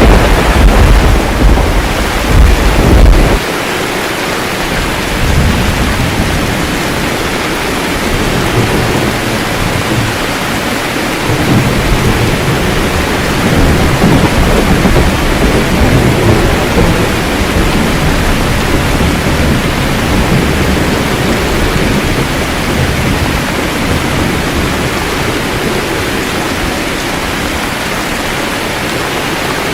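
Steady heavy rain with thunder: a loud rumble of thunder in the first three seconds or so, then fainter rolling rumbles through the middle under the constant rain.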